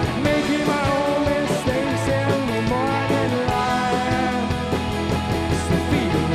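Indie rock band playing: electric guitars, bass and drums with a steady beat, a bending melody line over the chords.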